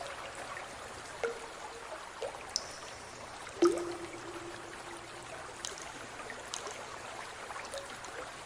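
Water trickling steadily, with a few sudden drip-like plops into water; the loudest comes about three and a half seconds in.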